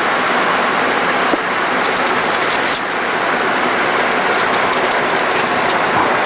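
Steady rushing flight-deck noise of a Boeing 737-200 in the climb: airflow and its Pratt & Whitney JT8D turbofans, with a faint click about a second and a half in.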